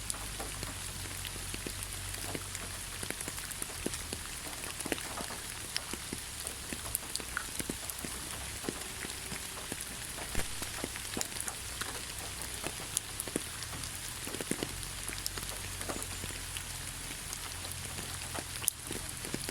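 Steady light rain pattering on leaves, an even hiss dotted with many separate drop ticks.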